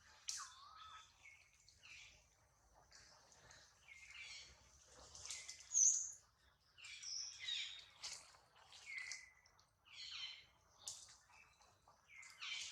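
A series of short, high-pitched chirping calls, many sliding down in pitch, repeating about once or twice a second, with the loudest call about halfway through.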